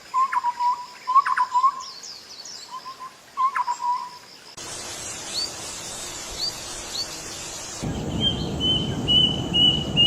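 Songbirds calling in three separate recordings, one after another. First a bird repeats short low-pitched notes mixed with sharp high chips. Next come a few brief rising whistles over a hiss, and last a rapid run of high notes that falls slightly in pitch near the end.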